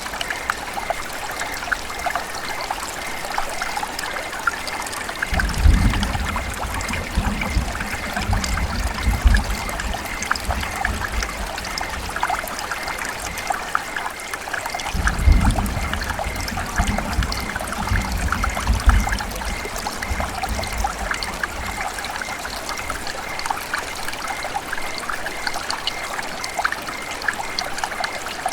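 River water running and trickling in a steady babble. Two spells of low rumble come in underneath, about five seconds in and again around fifteen seconds, each lasting a few seconds.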